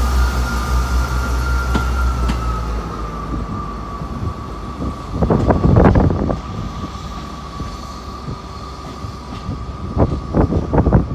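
Diesel train at the platform with its engine running and a steady high whine that drops a little in pitch about three seconds in. Heavier bursts of rumble come about five seconds in and again near the end.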